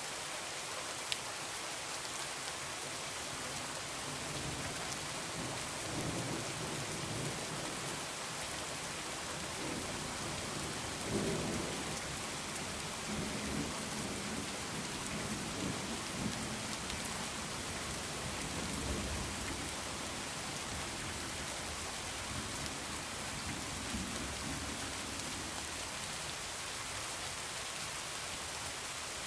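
Heavy rain, a steady hiss, with thunder rumbling low and rolling in several swells through the middle, the strongest about eleven seconds in. A single sharp click sounds about a second in.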